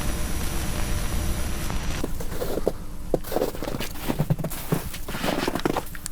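A steady hiss of tape static with a low hum, which cuts off about two seconds in. Then footsteps crunch through snow, several uneven steps in a row.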